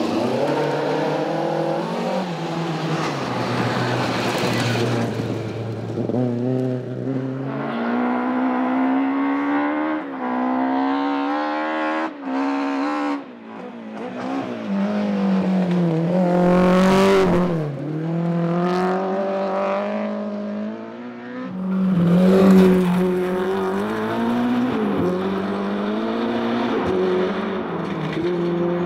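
Historic rally cars at full throttle on a special stage, one after another. Each engine note climbs through the revs, drops at gear changes and lifts, then climbs again, loudest about two-thirds of the way in.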